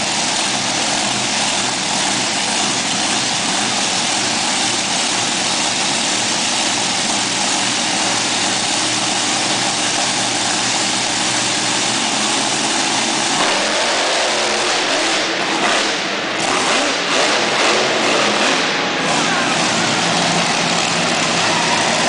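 Monster truck engines running and revving loud, a dense wall of engine noise that changes in character a little past halfway through.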